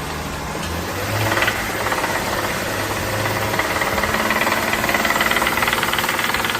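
BMW 535 engine running with its speed raised about a second in, giving a loud, fast, rhythmic knocking, "da da da da". The mechanic takes the noise for a fault inside the engine.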